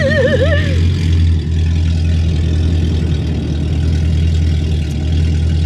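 Car engine idling steadily with a deep, even drone, dipping slightly about a second and a half in.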